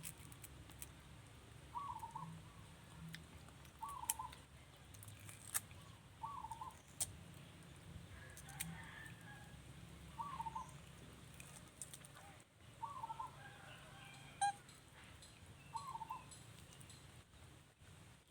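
A bird calling over and over, a short call repeated about every two to three seconds, with scattered sharp clicks in between.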